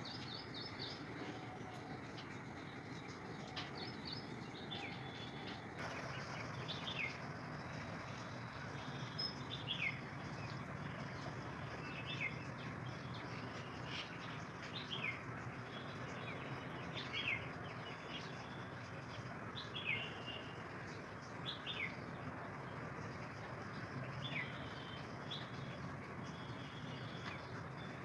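A bird calling outdoors: a short clear note that slides quickly downward, repeated about every two to three seconds, with a few higher chirps near the start. A steady background hiss of environmental noise runs underneath.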